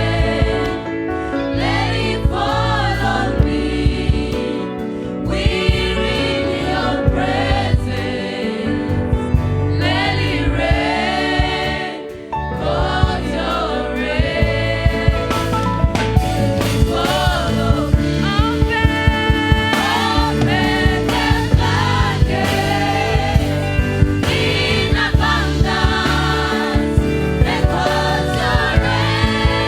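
Live gospel worship song: several singers over a full band with a steady drum beat, the music dipping briefly about twelve seconds in.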